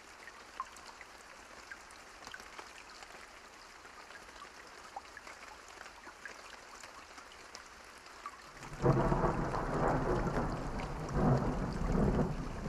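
Steady rain falling, with individual drops ticking. About two-thirds of the way through, a loud roll of thunder breaks in suddenly and rumbles on, swelling twice more.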